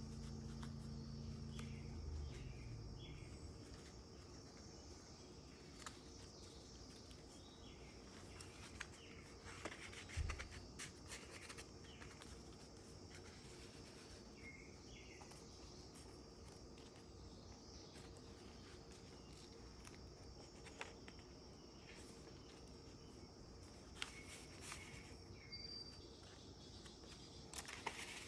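Very quiet paper handling of a junk journal: scattered soft clicks and rustles of pages and paper, with a slightly louder knock about ten seconds in. Faint high chirps sound in the background throughout, and a low hum stops about two seconds in.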